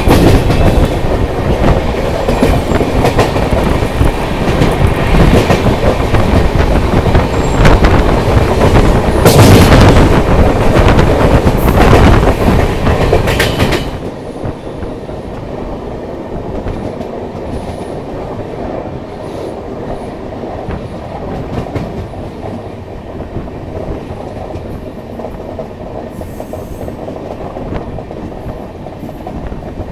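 Double-decker express train running along the track, wheels clattering over the rails, loud and rough at first, then dropping suddenly to a much quieter, steadier running sound about halfway through.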